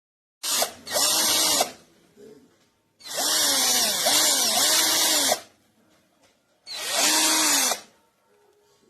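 DEKOPRO 20V cordless drill motor running in three separate bursts. Its pitch rises and falls within each as it speeds up and slows down; the middle run is the longest, at about two seconds.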